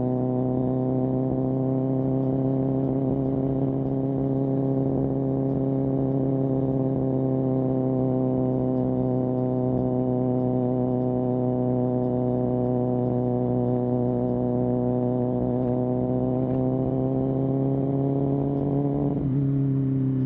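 Kawasaki ZX-10R's inline-four engine through an M4 exhaust, running at steady cruising revs with the pitch creeping slowly up. Near the end the pitch drops suddenly as the revs fall.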